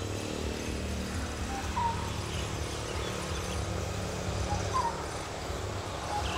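A bird calling repeatedly, each call a brief lower note followed by a short rising note, about every three seconds, over a steady low background hum.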